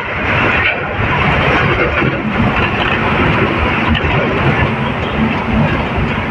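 Truck on the highway heard from inside the cab: the engine's steady drone mixed with loud road and wind noise.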